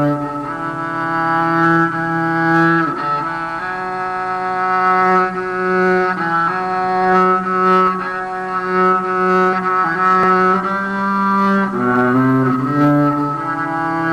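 Slow, meditative melody on a bowed string instrument: long held notes that change every second or two over a lower sustained note.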